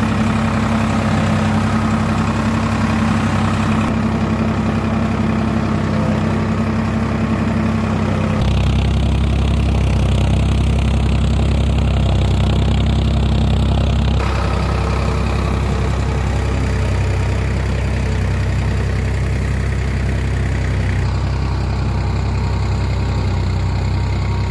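Tractor diesel engine running steadily at idle. The engine sound changes abruptly every few seconds, as between separate clips.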